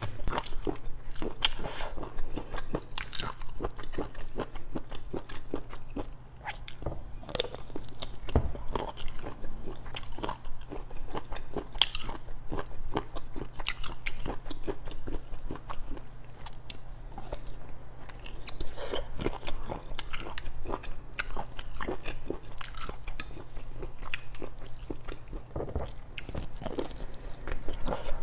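Close-miked biting and chewing of a garlic-spiced octopus tentacle: a dense, irregular run of small mouth clicks and smacks as the rubbery meat is worked.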